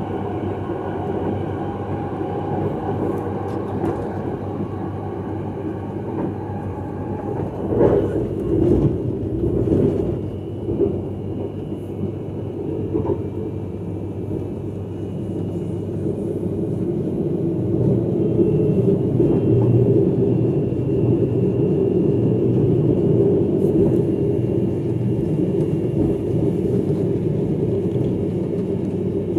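Electric multiple-unit train running at speed, heard inside its rear driver's cab: a steady rumble of wheels on the track. A thin whine fades out about a quarter of the way through, a few sharp knocks come soon after, and the running grows louder in the second half.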